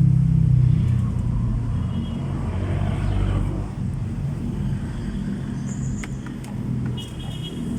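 A vehicle engine running at idle, a steady low rumble that is loudest in the first second or so and then settles a little quieter.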